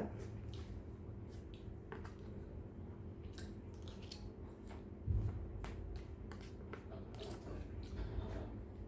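A person eating close to the microphone: wet chewing and crunching of pounded cucumber salad, with many small irregular clicks and one louder thump about five seconds in, over a steady low hum.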